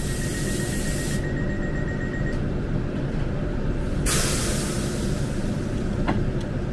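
Southeastern Class 395 high-speed train running, a steady low rumble. Two bursts of hissing: one dies away about a second in, another starts about four seconds in and carries on.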